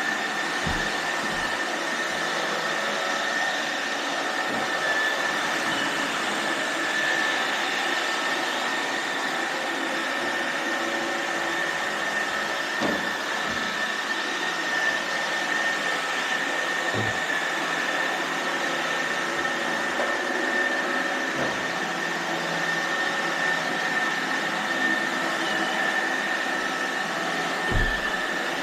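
iRobot Roomba robot vacuums running: a steady whirring hiss with a high whine held at one pitch, and a few short low knocks now and then, the strongest near the end.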